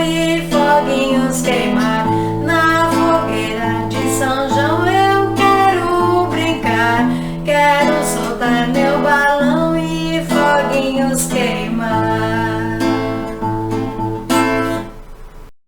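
A woman singing a festa junina song in Portuguese, accompanied by a strummed acoustic guitar. The music dies away just before the end.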